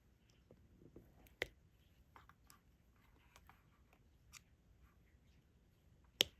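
Small clicks and taps of a diamond-painting pen picking up resin drills and pressing them onto the sticky canvas, with two sharper clicks about a second and a half in and near the end.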